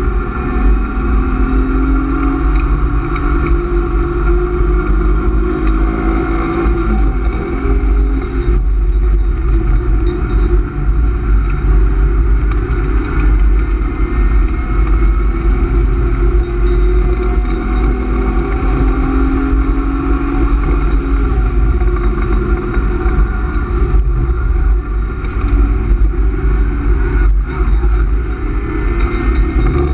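BMW E36 328is inline-six, fitted with a cold air intake and M50 intake manifold, running hard on track, heard inside the cabin. Its revs climb and drop several times as the car accelerates and brakes through corners. A heavy rumble of road and wind noise runs underneath.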